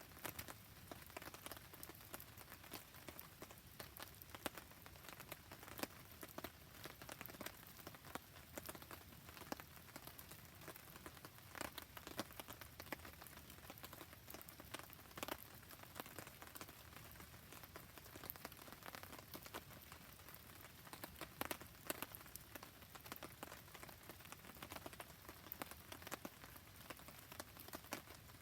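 Faint, steady rain with many small sharp ticks and pops scattered through it, mixed with a crackling wood campfire.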